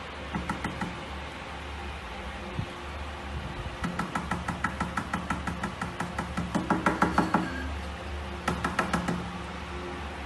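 Rapid, even tapping, about five or six light knocks a second, in three runs: a short one near the start, a long one in the middle that grows louder, and another brief run near the end.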